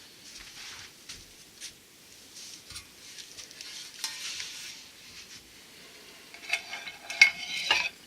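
Hands handling a small outdoor product and its packaging: crinkly rustling and light clicks and clinks, busiest and loudest near the end.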